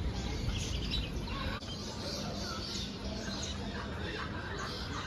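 Many small birds chirping and calling over one another, with short scattered calls throughout, over a steady low background rumble.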